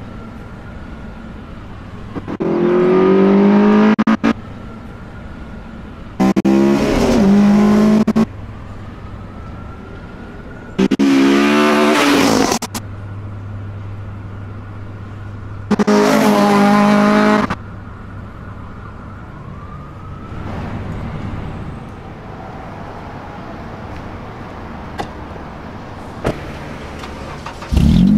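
Honda Civic FN2 Type R's K20 four-cylinder engine idling, revved hard four times in about two-second blips that climb in pitch, dropping back to idle between them, then given a lighter rev near the end.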